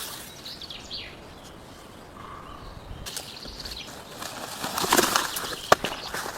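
A few short bird calls in the forest during the first second or so, then rustling and scraping as wood is handled, with a sharp knock near the end.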